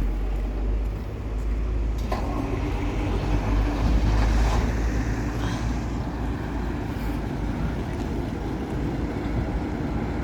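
Bus engine running close by, a steady low rumble that swells a little about four seconds in.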